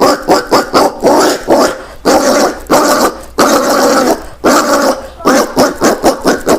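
Collared peccary calls: a quick series of short sharp calls and clicks alternating with longer harsh calls of about half a second each.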